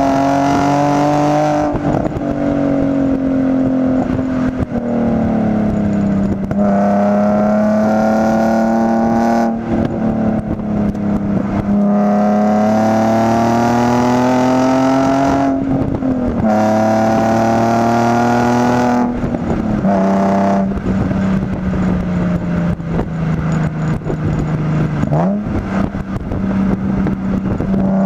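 Nissan 350Z HR's VQ35HR V6 heard through an Injen cat-back exhaust from an external mic: the engine pulls up through the revs with the pitch climbing, dropping at each gear change, several times over. Then it eases off with the pitch falling slowly, and there is a quick rev blip near the end.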